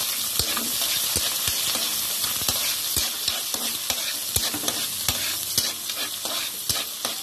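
Chopped garlic and onion sizzling in hot oil in a wok as they are stirred, with a steady hiss and irregular taps and scrapes against the pan about twice a second.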